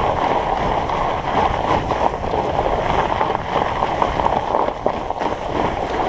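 Studded fat-bike tyres (45NRTH Dillinger 5) rolling over an icy trail, giving a steady, grainy noise.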